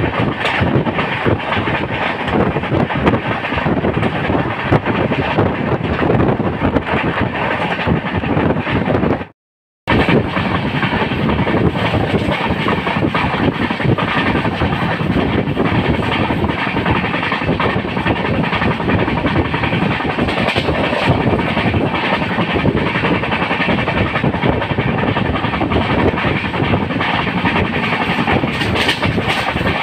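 Jan Shatabdi Express passenger train running at speed: a steady rumble of wheels on rail with the clickety-clack of wheels passing over rail joints. The sound cuts out for about half a second about nine seconds in, then carries on the same.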